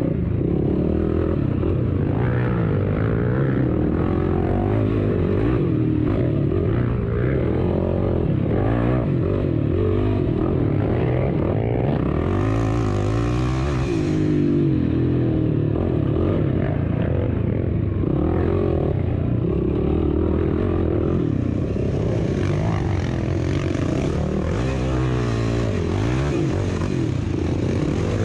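Motorcycle engine under racing load, its pitch rising and falling again and again as the rider accelerates and backs off.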